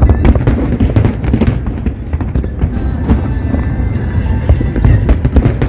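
A fireworks display going off in rapid succession: dense booms with bursts of sharp crackling, thickest about the first second and again near the end.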